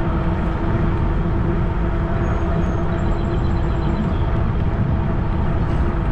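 Cyrusher Kommoda fat-tire e-bike riding along at speed: a steady rush of wind on the microphone and rolling noise, with a steady hum running under it.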